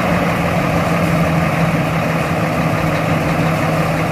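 Truck engine running steadily at idle.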